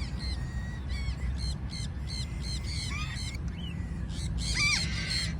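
Mini macaws squawking: a quick run of short, harsh repeated calls about a second in, then a louder arched squawk near the end, over a steady low rumble.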